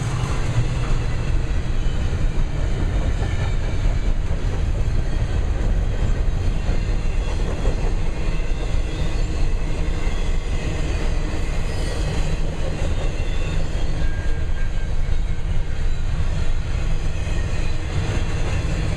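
Freight train of intermodal container stack cars rolling past: a steady, loud rumble of wheels on the rails.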